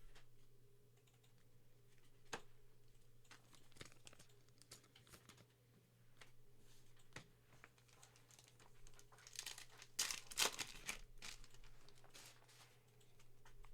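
Faint handling of trading cards and their pack wrappers: scattered soft clicks and light rustling as cards are flipped and slid against each other, busier about two-thirds of the way through.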